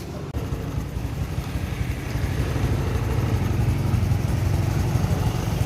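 Honda Wave 110i motorcycle's single-cylinder engine running, rising gradually in loudness and revs through most of the stretch.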